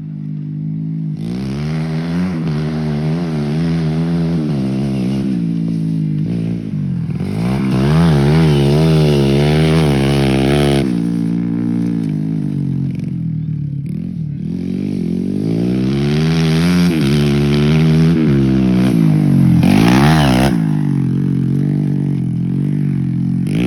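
Dirt bike engine revving, its pitch rising and falling again and again in quick throttle blips, louder around the middle and again near the end.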